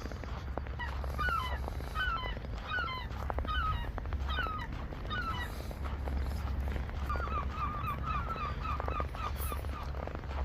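Short, squeaky animal calls repeated about twice a second, in two runs with a brief pause between them, the second run quicker, over a steady low rumble.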